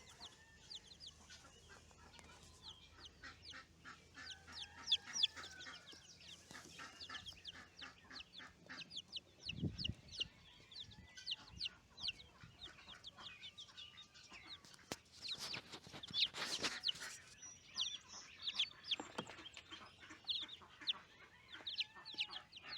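Buff Brahma chicks peeping steadily, many short high calls that slide downward in pitch, overlapping one another. A dull thump comes about ten seconds in, and a brief rustling noise a few seconds later.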